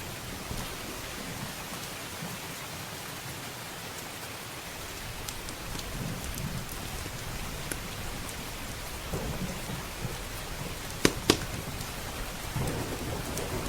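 Steady rain with low rolling thunder that swells several times, the last and strongest near the end. Sharp pops of a crackling wood fire sound over it now and then, two loud ones close together about eleven seconds in.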